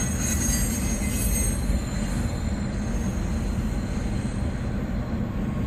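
A train rolling past close by: a steady rumble of wheels on the rails, with a thin, high wheel squeal that fades over the first couple of seconds.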